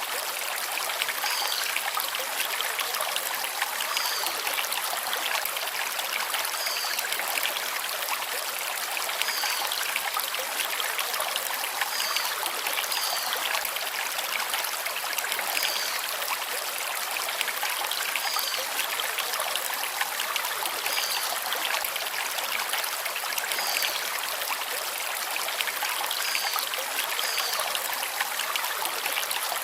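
Shallow stream flowing over river stones, a steady rushing trickle. A bird gives a short high call every two to three seconds.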